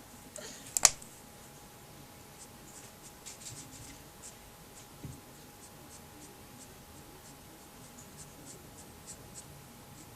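Pen scratching on paper as someone writes, faint and intermittent, with a sharp click about a second in.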